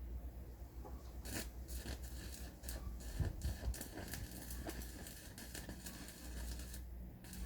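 Irregular scraping and clicking from hands-on work, a dense run of sharp clicks and scrapes over a steady low rumble.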